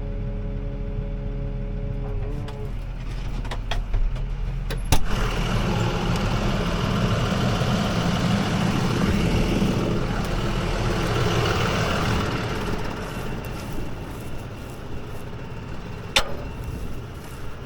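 CLAAS ARION 650 tractor engine running steadily, heard from inside the cab. Sharp clicks come about four and five seconds in and again near the end, with a stretch of louder rushing noise between them.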